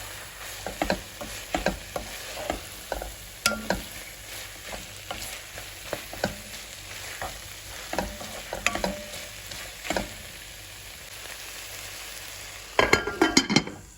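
Chopped vegetables and seasoning frying in a pot with a steady sizzle while a utensil stirs them, scraping and clicking against the pot. A quick cluster of louder clacks comes near the end.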